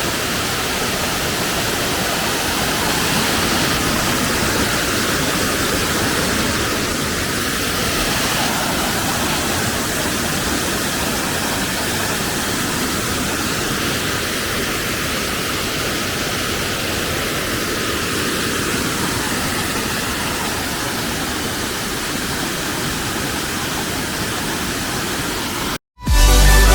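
Steady rush of falling water, a waterfall, holding an even level throughout and cutting off suddenly just before the end.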